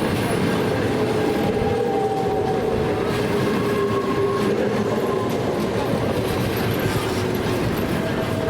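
A train moving along the track, its wheels clicking over the rail joints, with a steady whine whose pitch slowly falls.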